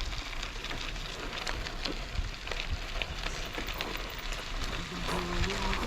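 Riding noise from a moving bicycle: tyres crackling over a rough path with small rattles and clicks. A short steady whine with a few overtones comes in near the end.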